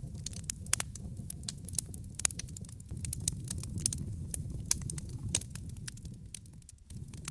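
Wood fire crackling in a fireplace: frequent sharp pops and snaps over a low, steady rumble. The sound briefly dips out just before the end.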